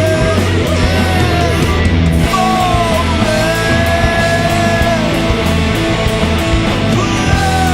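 Alternative rock song: loud, dense band with distorted guitars, bass and drums, with a lead line gliding in pitch over it.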